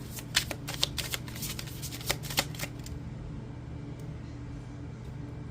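Oracle card deck being shuffled by hand: a quick run of crisp card snaps and riffles for nearly three seconds, then it stops, leaving a low steady hum.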